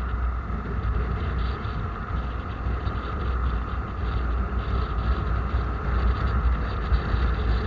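Steady rumble and road noise of a moving vehicle, with wind buffeting the microphone.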